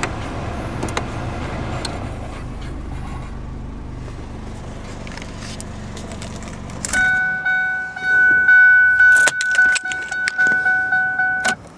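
2007 Ford Focus four-cylinder engine idling, heard from inside the cabin, then switched off about seven seconds in. A pulsing two-note warning chime then sounds over keys jangling and clicking at the ignition, and cuts off suddenly near the end as the key is pulled.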